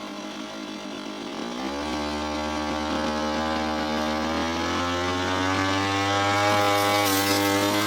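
Brush cutter engine speeding up from a low speed about a second and a half in, its pitch climbing steadily, then holding at high revs and getting louder near the end.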